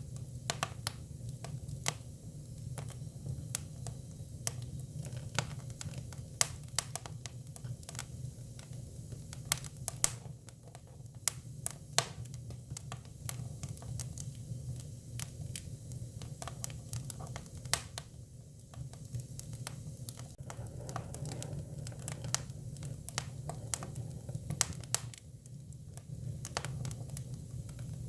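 Hinoki cypress firewood burning: irregular sharp crackles and pops over a steady low hum.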